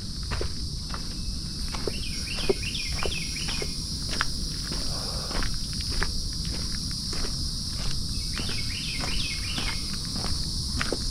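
Footsteps walking steadily along a trail, about two a second, over a steady high insect drone. A bird sings a short chirping phrase twice, once a couple of seconds in and again near the end.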